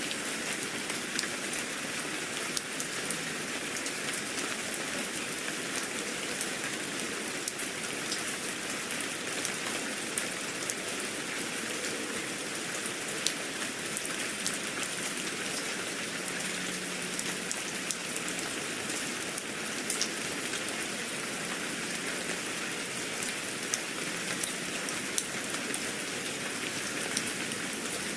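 Steady rain with drops pattering on a surface and scattered sharper drip ticks throughout.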